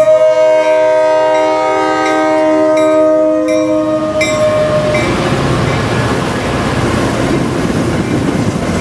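Locomotive air horn sounding a chord of several notes, the notes cutting off between about three and a half and five seconds in, followed by the steady rumble and rail noise of a train passing close by.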